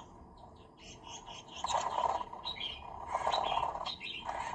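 Birds chirping, in three short bouts about a second apart with thin higher chirps between them.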